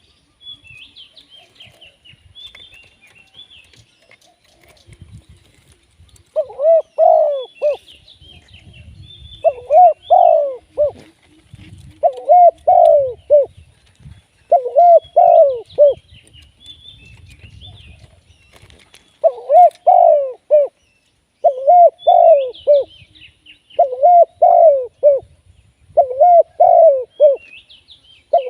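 Spotted dove cooing: a phrase of a few low coos repeated about every two to three seconds, starting about six seconds in. Small birds chirp faintly throughout.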